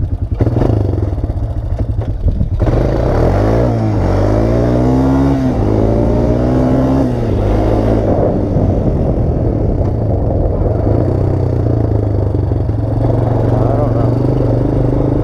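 Honda Recon 250 ATV's single-cylinder engine running while riding, louder from a couple of seconds in, its pitch rising and falling several times as the revs change, then running steadily.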